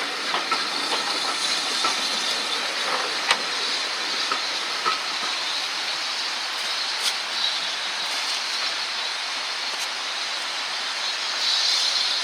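Steady hiss of steam from a steam locomotive, with a few sharp clicks and the hiss swelling near the end.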